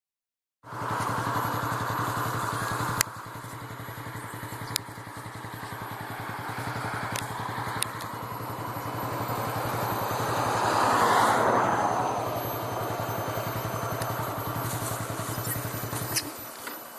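A vehicle engine idling steadily, with a few sharp clicks over it; a louder rushing sound swells and fades about two-thirds of the way in, and the engine is switched off near the end.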